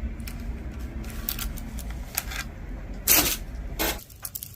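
Costume jewelry being handled and sorted by hand: small scattered clicks and clinks of pieces, with a louder rustle about three seconds in and another shortly after.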